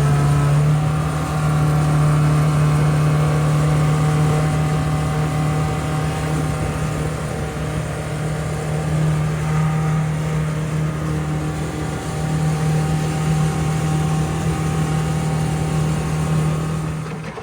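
River boat's engine running steadily at a constant pitch, heard from aboard.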